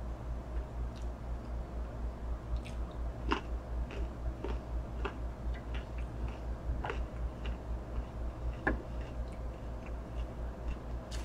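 Chewing of fried boneless chicken wings, with scattered sharp clicks of a knife and fork against a plate, over a steady low hum.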